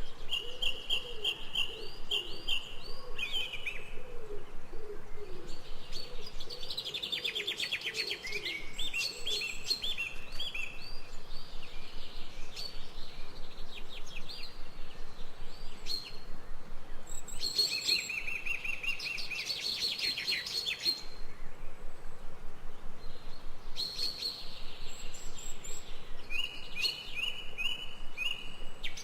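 Several birds chirping and singing in a dawn-chorus mix, with short chirp phrases repeated over and over and lower, softer arching calls during the first several seconds.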